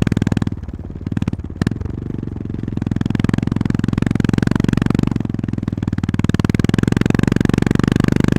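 Honda GB350S's air-cooled 348 cc single-cylinder engine running under way, its exhaust pulsing steadily. About half a second in the throttle eases off briefly, and the engine pulls again from just under 2 s.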